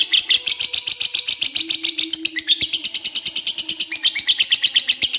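Lovebird giving its long 'ngekek' chattering song: a fast, unbroken run of sharp, high notes, about ten a second, with the pattern shifting slightly partway through.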